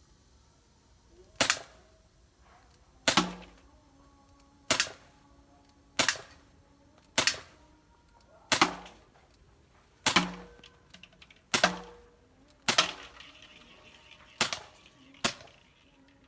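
CO2-powered Glock 19 6 mm BB air pistol firing single shots: eleven sharp pops, one every one to two seconds, each with a short ringing tail.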